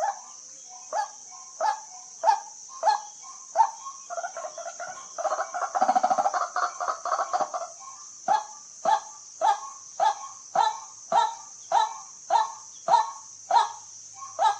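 White-breasted waterhen calling: a run of sharp, regularly repeated calls, nearly two a second, breaking about four seconds in into a loud, rapid grating chatter, then settling back into the steady repeated calls. A steady high hiss runs underneath.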